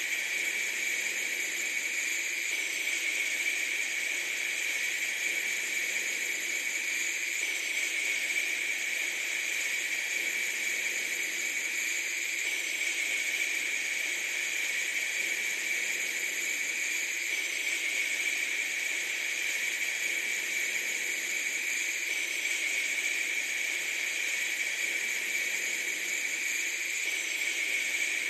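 A steady, unchanging hiss.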